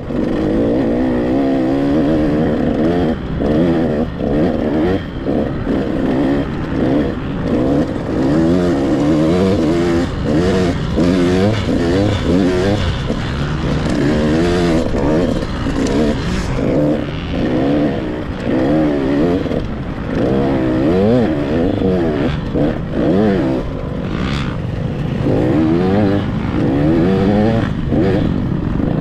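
Husqvarna TC 85 two-stroke dirt bike being ridden, its engine revving up and falling back over and over as the rider works the throttle and gears, picked up at the rider's helmet.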